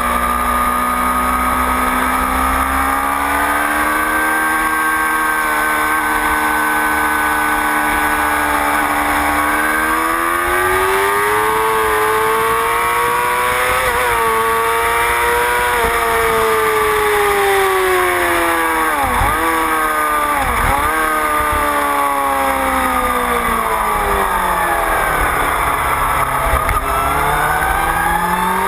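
Motorcycle engine heard onboard with wind on the microphone, its pitch rising and falling as the bike speeds up and slows. Near the middle the engine winds down with two quick, sharp dips in pitch, then climbs steadily again toward the end.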